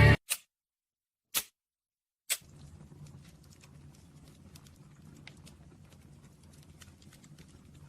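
Three short sharp knocks about a second apart, then a faint low hum with scattered light ticks, ending in a louder click.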